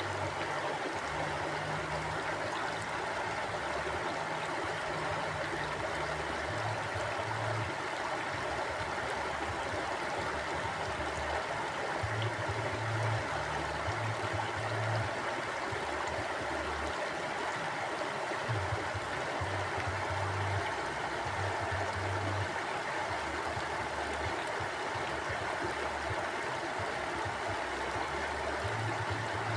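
Mountain river flowing: a steady rush of water, with a low, uneven rumble that swells and fades underneath.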